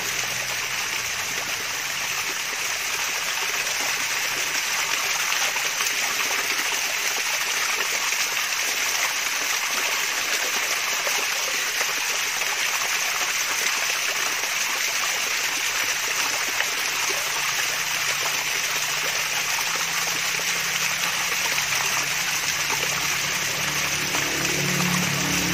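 Water from a small cascade splashing and trickling steadily.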